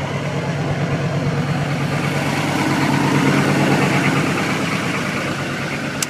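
Diesel pickup engine running steadily at high idle just after a cold start. The level swells a little midway and drops off suddenly with a click near the end.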